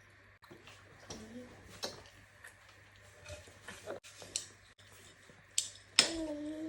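Scattered small clicks and taps of a toddler eating finger food at a plate, with a short vocal sound near the end.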